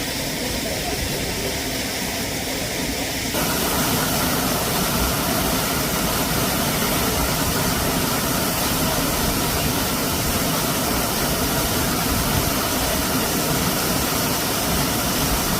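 Waterfall water rushing steadily, with no break. It gets louder and brighter all at once about three seconds in.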